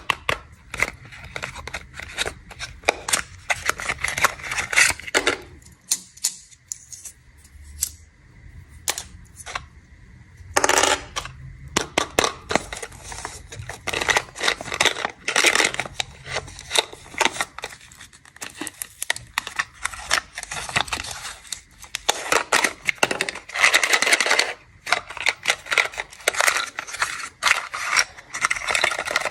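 Snack packaging being handled and unwrapped: plastic wrappers crinkling and rustling in a long run of crackly bursts, sparser for a few seconds early in the stretch.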